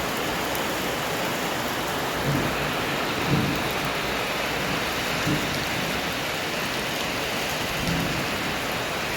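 Steady rain falling and hitting surfaces, an even hiss, with a few short low thuds scattered through it.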